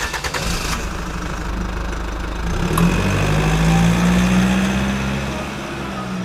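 An engine running with a steady low hum, louder from about three seconds in, with a quick rattle of clicks in the first second.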